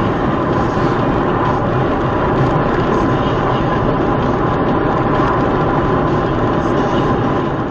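Steady vehicle engine and road noise at a constant level, with a faint steady hum on top. It cuts off abruptly near the end.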